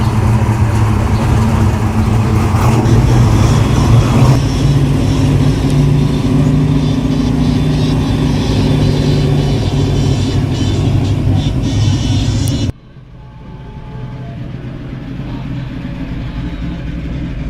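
Car engine running with a loud, steady low rumble that cuts off abruptly about thirteen seconds in, leaving a quieter mixed background.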